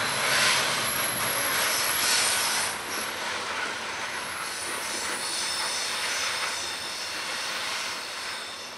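Loaded coal hopper cars rolling past, a steady wash of steel wheels on rail with a thin high wheel squeal. It drops in level about three seconds in and fades further near the end as the last cars go by.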